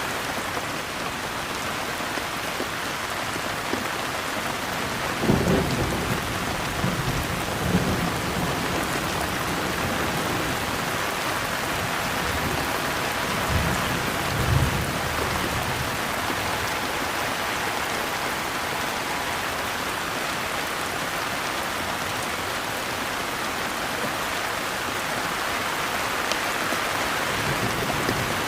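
Steady rain falling, with thunder rumbling twice, about five seconds in and again around fourteen seconds in.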